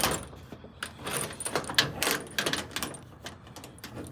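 Keys jangling, with metal clicks and rattles from an old door lock being worked.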